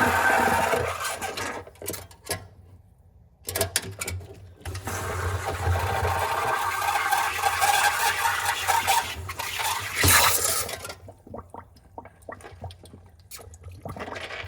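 Steamer blowing steam down a refrigerator's frozen defrost drain to thaw the ice, hissing and sputtering in long stretches over a steady low hum. It pauses about two seconds in, and the hiss drops away near the end.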